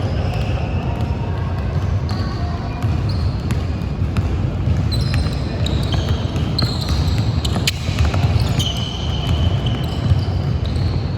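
Basketball game sound in a gym: the ball bouncing on the court and sneakers squeaking in short high chirps over a steady low hubbub of the hall.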